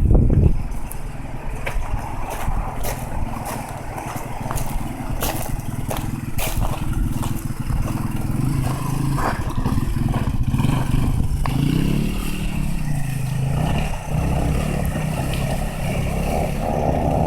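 Dirt bike engine running and revving, its pitch rising and falling, with scattered sharp knocks and clatter during the first half.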